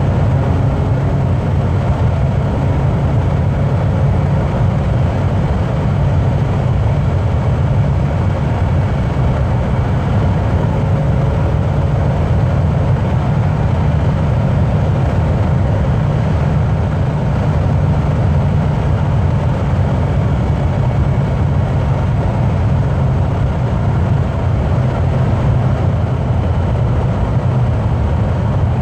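Car driving at motorway speed: a steady low rumble of engine and tyre noise that holds unchanged throughout.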